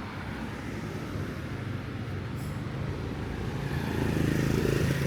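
Street traffic: a motor vehicle's engine hums steadily and grows louder as it draws closer about four seconds in.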